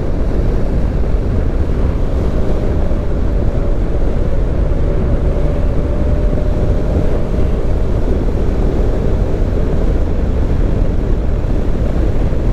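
Steady low rumble and rushing road noise of a vehicle driving, with a faint steady whine in the middle.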